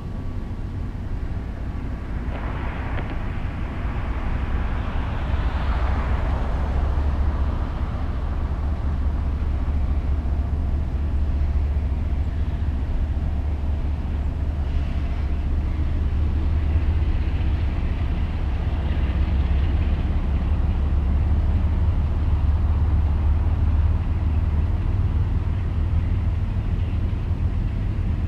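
CSX freight train running, a steady low rumble that grows louder over the first few seconds and then holds, with some rattling and scraping noise over it early on and again around the middle.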